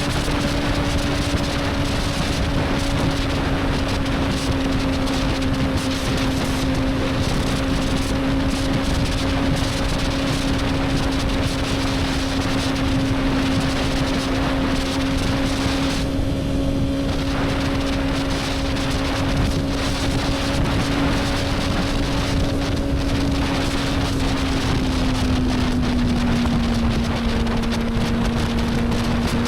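Sport motorcycle's inline-four engine cruising at steady revs under heavy wind rush on the microphone. The engine note eases slightly lower about three-quarters of the way through, as the throttle backs off a little.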